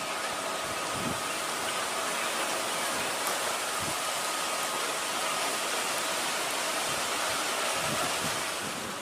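Strong wind rushing steadily, with a few brief low gusts buffeting the microphone.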